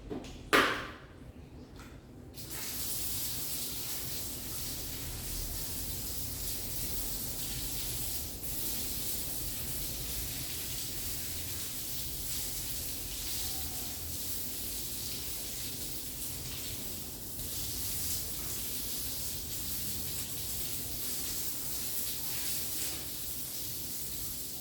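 A sharp knock, then a steady hiss of running water that starts about two seconds in and goes on without a break.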